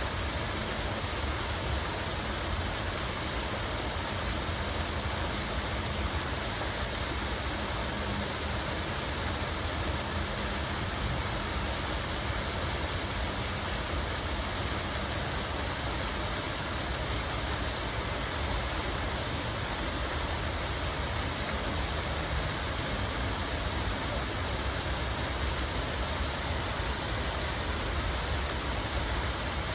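Park water feature running steadily: a continuous rushing and splashing of falling water with no breaks, over a steady low rumble.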